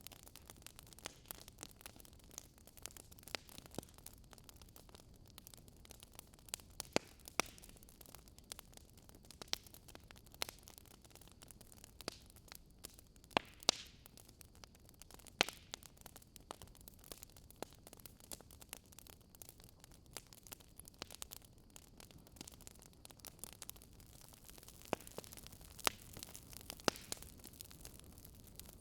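Wood fire burning in a fireplace: faint steady hiss with irregular sharp crackles and pops from the burning logs.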